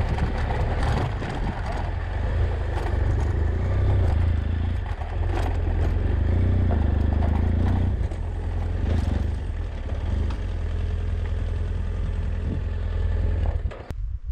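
BMW F800GS parallel-twin engine running steadily as the motorcycle rides over a rough, stony track, with scattered knocks and clatter from the stones and the bike. The sound cuts off suddenly near the end.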